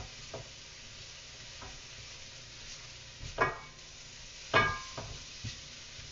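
Corn kernels sizzling as they roast in a hot wok, stirred with a utensil that knocks against the pan several times, the sharpest knocks about three and a half and four and a half seconds in.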